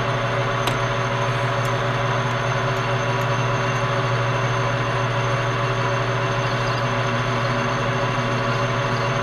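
Metal lathe running steadily under power with a constant hum, its tool cutting the edge of the workpiece.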